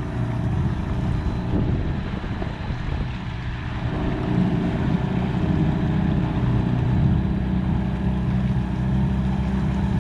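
Motorboat engine running steadily at low speed, getting a little louder about four seconds in.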